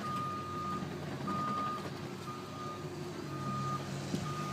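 A heavy truck's reversing alarm beeping about once a second, one steady high tone, over its engine running.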